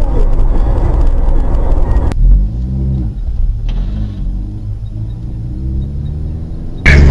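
Car engine and road noise in three segments separated by abrupt cuts: first a loud rumbling drive, then about two seconds in a quieter engine whose pitch rises and falls as it revs and shifts, and near the end a sudden loud, steady engine drone.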